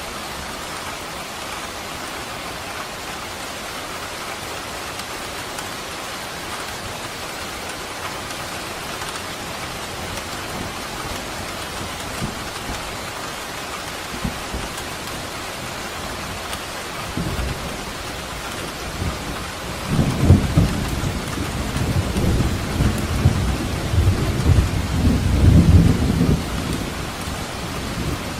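Steady rain falling, joined about two-thirds of the way through by a long rumble of thunder that swells, crackles and fades out near the end.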